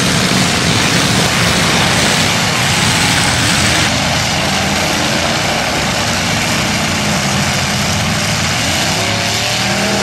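Several demolition derby cars' engines running loud together, some revving up and down. The mix changes about four seconds in.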